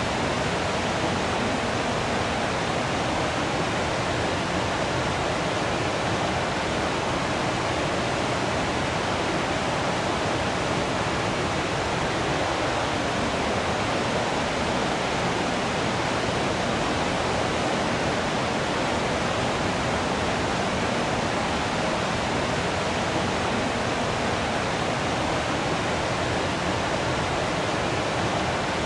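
Waterfall: water falling and rushing in a steady, even roar-like hiss with no breaks.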